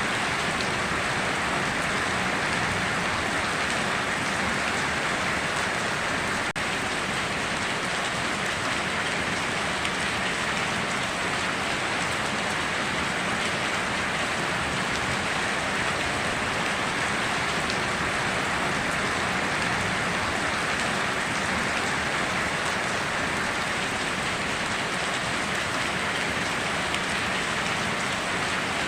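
Steady rain falling in a dense, even hiss of countless drops, with no thunder.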